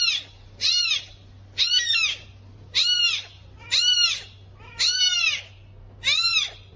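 An animal calling over and over, about seven high-pitched calls roughly a second apart, each rising and then falling in pitch.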